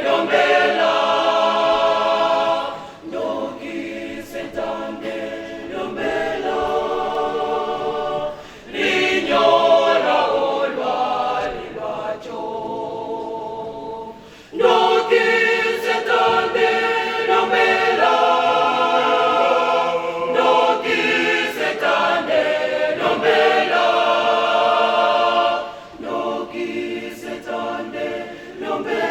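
A choir singing a cappella in phrases of a few seconds each, with short breaks between them.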